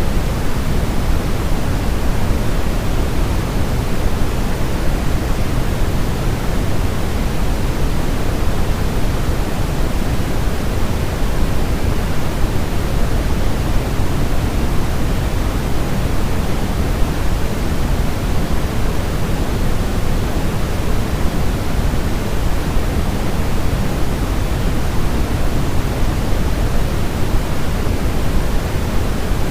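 Steady, unbroken pink noise, heavier in the low end than in the treble, with no change: a baby-sleep white-noise track made to imitate the sound of the womb.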